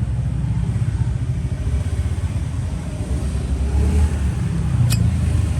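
Steady low rumble of street traffic with motorbikes. A single sharp click comes just before the end.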